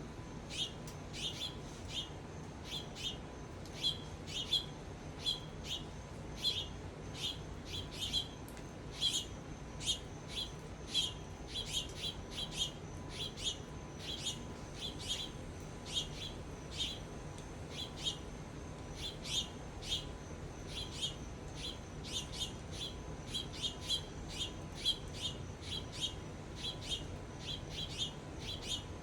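A bird calling over and over with short, sharp chirps, about two a second, without a break.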